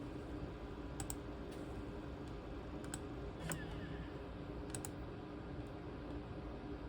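A handful of short, sharp clicks from a laptop's keys and buttons, some in quick pairs like double-clicks, over a faint steady background hum.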